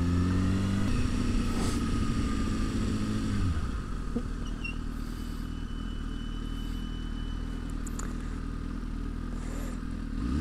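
Kawasaki Ninja motorcycle engine heard from the rider's seat: running steadily, then dropping to idle about three and a half seconds in and idling, with the revs rising again right at the end as it pulls away.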